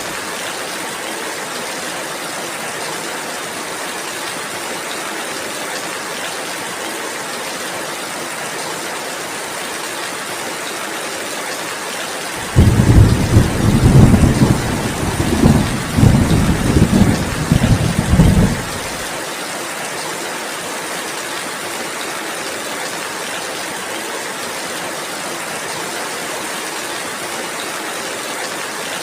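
Steady rain falling, with a deep thunder rumble that breaks in suddenly about twelve seconds in, swells several times over about six seconds, then fades back into the rain.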